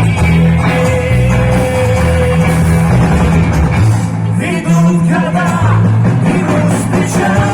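A vocal-instrumental ensemble playing a rock-style song live, loud and steady, with a strong bass line and a voice singing in places.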